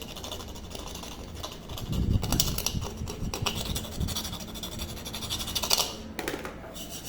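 Tool working on a pressure cooker lid to take out the old safety valve: scattered metal clicks and scraping, with a louder stretch about two seconds in and a short scrape near the end.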